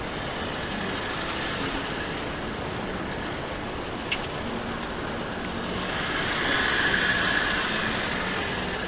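A car's engine running close by, getting louder from about six seconds in, with a brief click about four seconds in.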